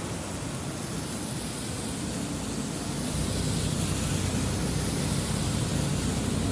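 Steady rain falling, with a low rumble underneath that grows louder about halfway through.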